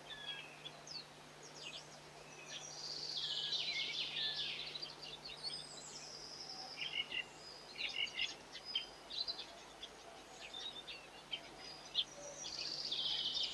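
Small garden birds chirping and twittering in short high calls, with denser bursts of twittering about three seconds in and again near the end.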